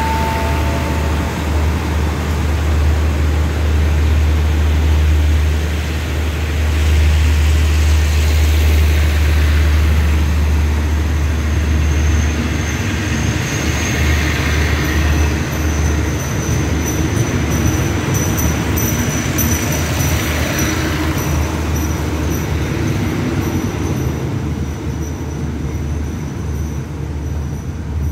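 Diesel-hauled express train's passenger coaches rolling past as the train pulls out of the station, a steady heavy rumble of wheels on rail with a thin high squeal through the middle, fading as the train draws away.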